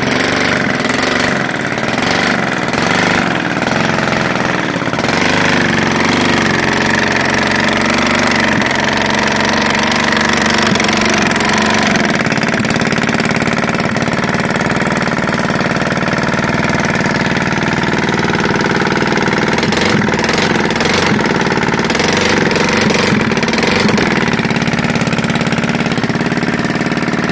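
Prototype hybrid opposed-piston rotary engine running steadily and loudly on a carburetor, its exhaust without a muffler.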